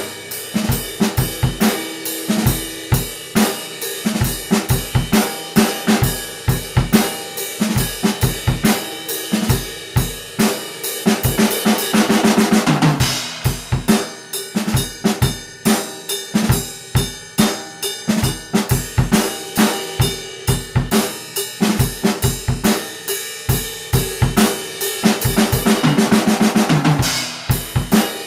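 Acoustic drum kit played in a steady country-rock beat: bass drum, snare and cymbals, with the pattern breaking into a fill about 12 seconds in and again near the end.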